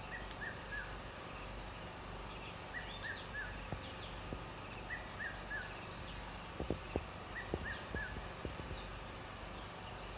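A bird repeating a short phrase of three falling whistled notes about every two and a half seconds, with other birds chirping higher, over the steady low hum of a generator. A few faint clicks come around the middle.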